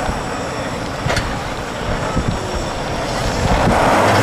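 Diesel engine of an 8x8 Tatra trial truck working on the course, getting louder about three and a half seconds in.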